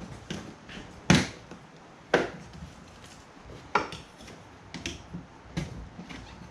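Loud sharp snaps of a plastic windshield cowl being pried loose, its clips popping free: three loud cracks about a second apart and near four seconds in, with smaller clicks between.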